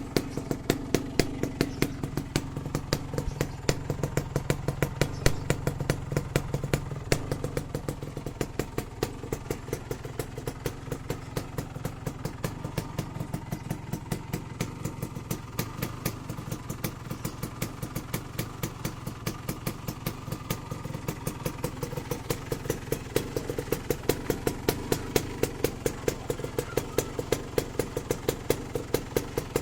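Suzuki RGR150's two-stroke single-cylinder engine idling, with sharp exhaust pops several times a second over the engine hum.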